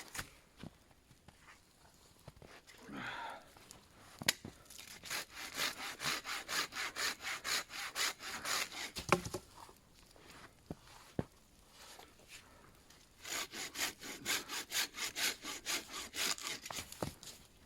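Hand saw cutting through wood, in two bouts of quick back-and-forth strokes with a pause and a few knocks between them.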